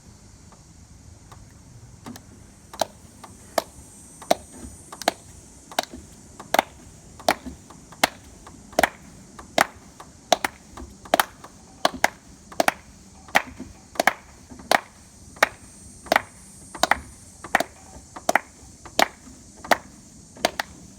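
Sharp percussive taps keeping a steady beat, about three every two seconds, faint at first and growing clearly louder a few seconds in.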